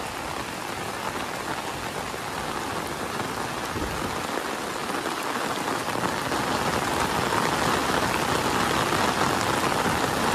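Heavy rain pouring down, a steady hiss that grows gradually louder.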